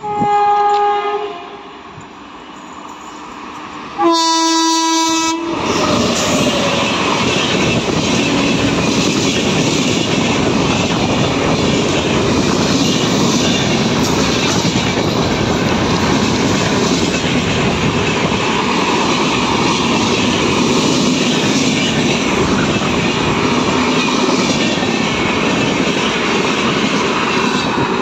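WAP7 electric locomotive horn sounding a short blast, then a louder, longer blast about four seconds in, as the express runs through at high speed. Its coaches then pass in a steady loud rush of wheels on rail, easing off near the end as the last coach goes by.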